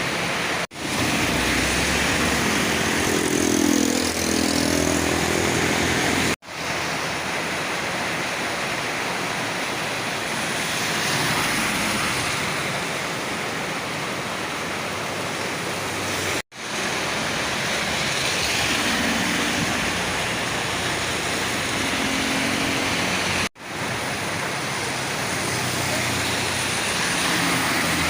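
Heavy rain and the hiss of tyres on a wet road as trucks pass, with a truck engine note rising a few seconds in and another engine audible near the end. The sound cuts out sharply four times.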